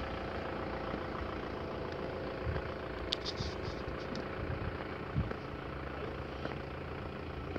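A vehicle engine idling steadily, with a few brief high-pitched squeaks about three to four seconds in.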